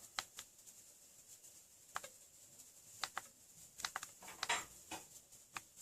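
Scattered light clicks and taps of small plastic gadgets being handled: a USB fan, a USB light and a Xiaomi power bank, about a dozen short knocks at irregular intervals.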